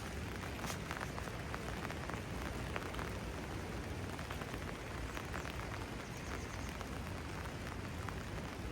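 Steady rain falling, with many single drops ticking sharply close by over an even hiss.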